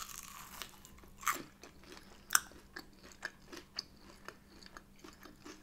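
A person biting and chewing a crispy air-fried breaded meat-free chicken-style nugget: a run of small crunches, the sharpest about a second and just over two seconds in.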